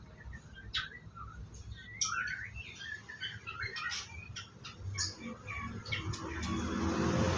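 White-rumped shama giving scattered short chirps and call notes. A hiss swells in near the end.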